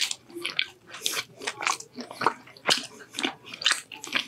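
A person chewing a mouthful of shawarma kebab wrap close to the microphone, with many short, irregular mouth clicks.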